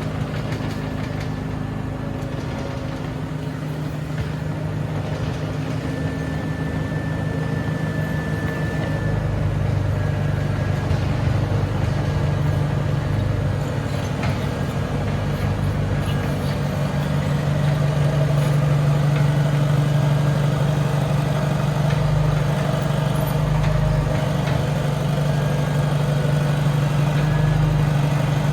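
Heavy earthmoving machine's engine running steadily. It gets louder about a third of the way in and again past the halfway point, as if it is put under more load or throttle.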